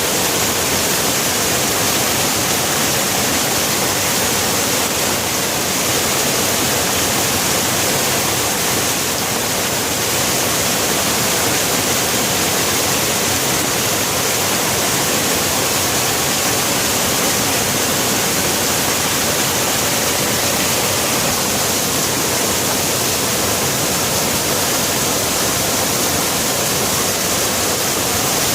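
Steady heavy rain, a dense unbroken hiss with no distinct drops or thunder.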